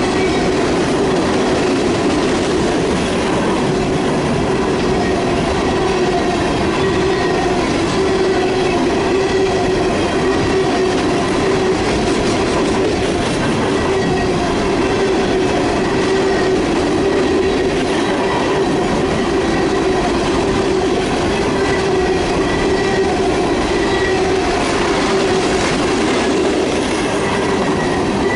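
Railroad freight cars rolling past at close range: a steady rumble of steel wheels on rail, with a continuous squealing tone from the wheels over it.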